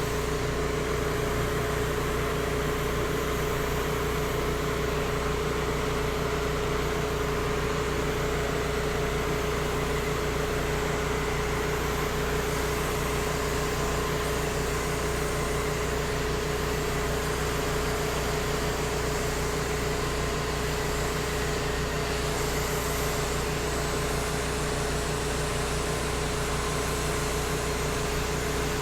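Small gas engine of a pressure-washing rig (generator and pump) running steadily at a constant speed, with an even hiss over it.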